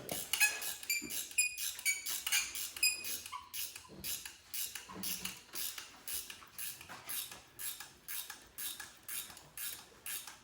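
Small metal parts clinking with brief ringing tones, then a steady run of short scraping strokes, about two a second.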